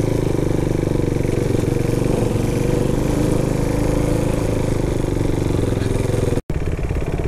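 Motorcycle engine running steadily on the move. It drops out for an instant near the end, then comes back with slower, distinct engine pulses.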